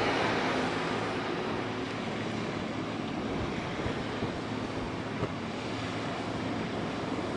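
A small high-speed passenger boat's engines running with a steady low hum, under a haze of wind on the microphone and water noise.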